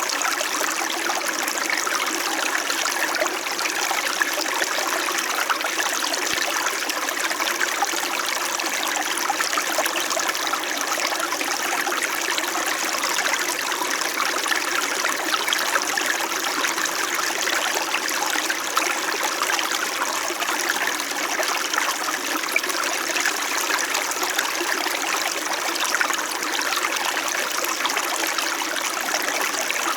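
A small mountain stream flowing and burbling steadily over stones, a continuous splashing, trickling rush.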